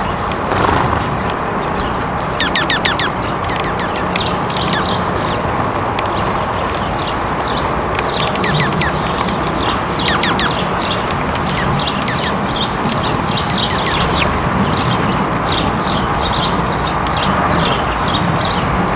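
Small songbirds chirping, a run of quick high chirps and calls that keeps coming through, over a steady rush of background noise.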